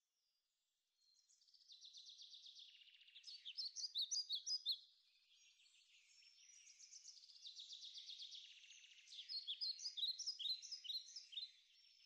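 Birds chirping and trilling, starting about a second in, with rapid runs of chirps that rise and fall in strength and peak around four seconds in and again near ten seconds.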